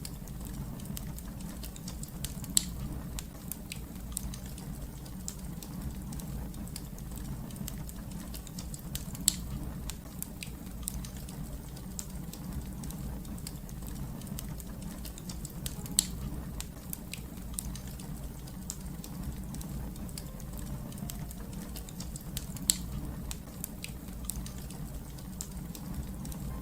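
Fire crackling: a steady low rumble of burning with a constant scatter of small sharp snaps, and a few louder pops standing out above them.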